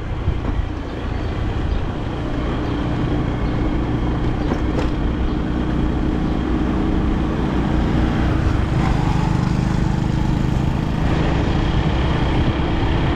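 A vehicle driving along a road: steady engine hum and road noise.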